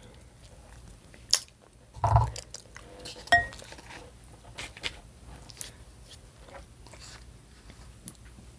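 Small scattered clicks and taps of hands handling food and tableware at a meal, with a soft thump about two seconds in.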